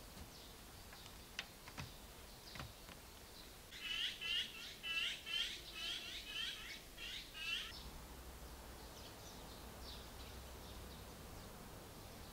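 A songbird singing a quick run of repeated, hooked chirping notes, about three a second for some four seconds, starting a few seconds in. A few faint clicks come before it and fainter bird calls follow.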